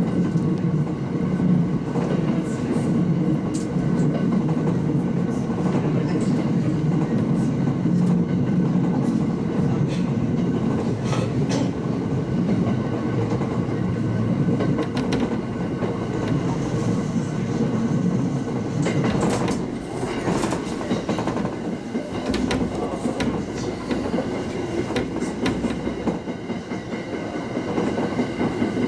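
Local passenger train running along the line: a steady rumble of wheels on rail, with scattered clicks of the wheels passing over rail joints.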